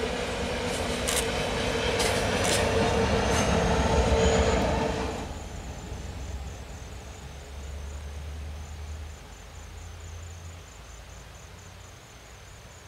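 The EMD SD80ACe tail helper locomotive of a loaded ore train passes close, with a steady engine tone and a few sharp clicks from the wheels on the rails. About five seconds in the loud sound drops away suddenly, leaving a low rumble from the departing train that fades out. Insects chirp faintly and steadily behind it.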